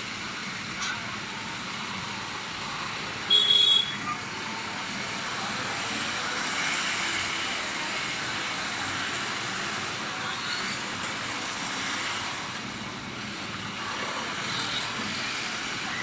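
Steady noise of vehicles moving on a road, with one short, loud, high-pitched beep about three seconds in.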